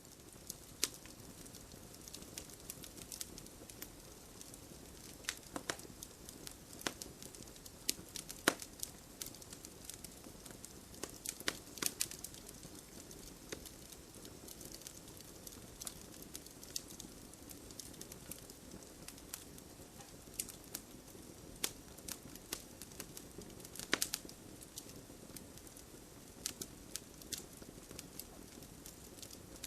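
Campfire burning: wood crackling and popping irregularly over a steady low hiss, with a few louder pops.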